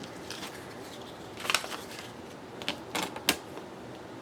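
Paper and small crafting items being handled on a table: a few short light taps and rustles, one about one and a half seconds in and a quick cluster of three near three seconds in.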